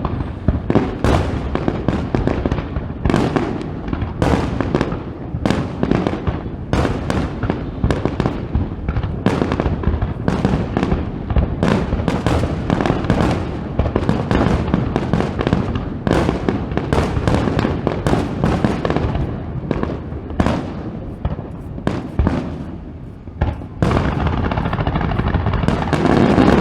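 Aerial fireworks display: a rapid run of sharp shell bursts, about one to two a second, over a continuous rumble. Near the end, a louder, steady rushing noise takes over.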